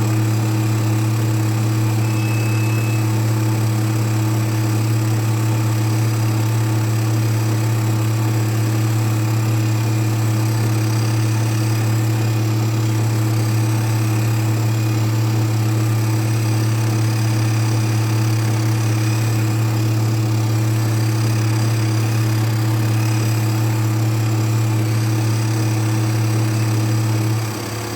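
Steady electric motor hum of a running treadmill with a toy RC car on its belt: one low, even drone that drops in level just before the end.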